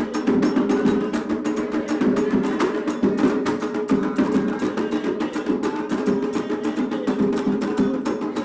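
Candomblé atabaque drumming: the rum toque for Oxum played as a fast, unbroken run of rapid, even hand strikes over a steady pitched undertone.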